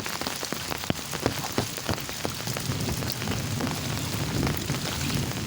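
Heavy rain pouring down, with a dense hiss and many sharp drop impacts on hard surfaces.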